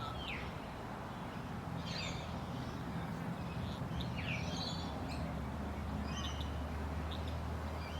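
Birds calling with short chirps and quick falling notes, about half a dozen times, over a steady low hum.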